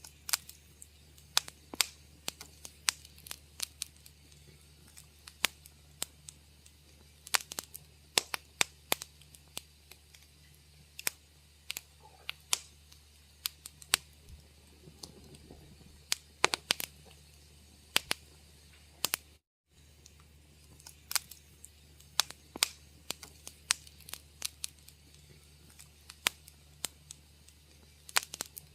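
Wood fire crackling in a fireplace: irregular sharp pops and snaps, several a second at times, over a low steady hum. The sound cuts out completely for a split second about two-thirds of the way through.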